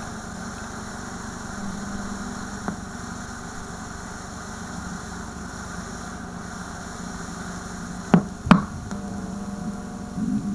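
VHS tape static from a VCR: a steady hiss with a low buzz running under it, broken by two sharp pops about eight seconds in.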